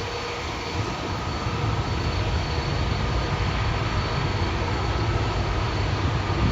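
Jet airliner engines running, a steady rushing noise with a faint high whine held at one pitch.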